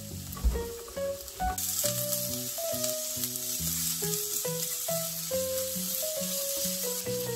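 Onion, carrot and ground pork sizzling as they are stir-fried in oil in a nonstick frying pan. The sizzle grows suddenly louder about a second and a half in, as the raw pork goes into the hot pan. Background music plays a simple melody throughout.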